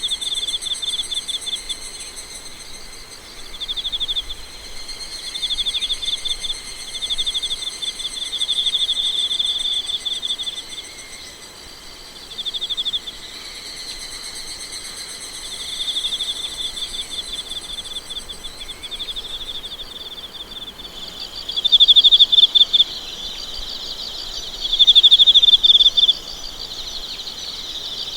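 A chorus of night insects in a forest. Several keep up steady high trills, while others call in repeated bouts of fast pulsed chirping lasting a second or two each; the two loudest bouts come late on.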